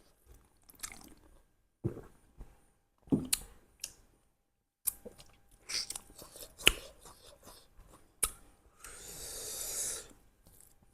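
People chewing and crunching duck curry close to the microphone, with scattered sharp clicks. There is a brief silent gap midway, and near the end a rushing noise lasting about a second.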